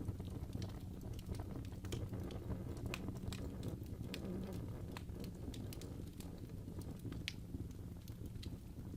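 Wood fire burning in a fireplace: a steady low rumble of the flames with frequent small crackles and pops from the burning wood, a few sharper snaps near the end.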